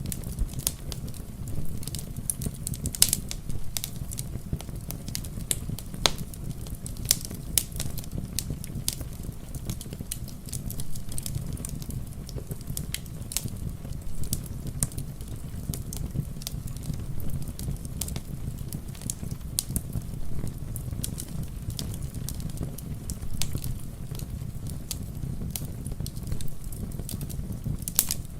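Wood fire crackling, with many irregular sharp pops and snaps over a steady low rumble, blended with the soft hiss of steady rain.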